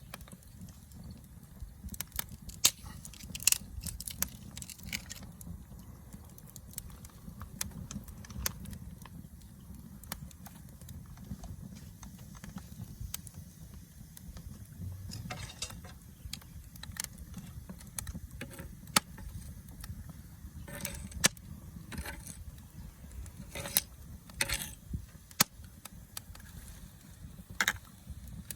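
Wood fire crackling, with irregular sharp pops and snaps, some in quick clusters, over a low steady rumble.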